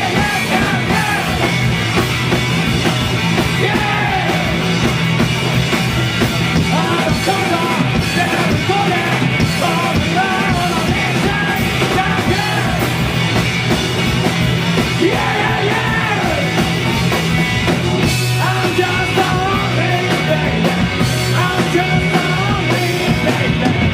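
Live punk-rock band playing at full volume: distorted electric guitars, bass and driving drums, with a shouted, yelling lead vocal over the top.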